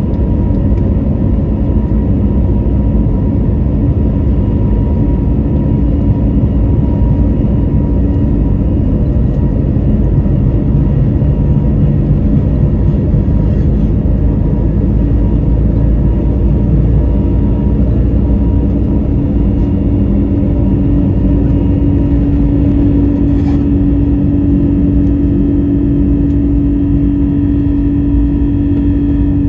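Airbus A321neo's Pratt & Whitney geared turbofan engines running, heard inside the cabin as a steady low rumble with faint steady tones. A low hum grows stronger about two-thirds of the way through.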